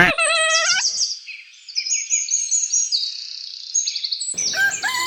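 Birds chirping in quick, high trills, with a sharp click at the start and a short wavering call just after. About four seconds in, a rooster starts to crow.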